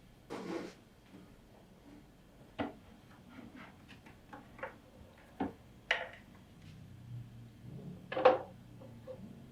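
Irregular light taps, clicks and knocks of small hard objects being handled, a dozen or so scattered through, the loudest about eight seconds in.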